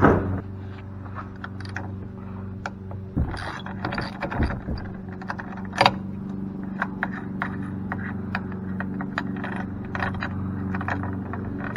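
Metal hand tools and sockets clinking and clicking irregularly while the large bolts of a cast aluminum pump are worked loose, a few sharper knocks among them, over a steady low hum.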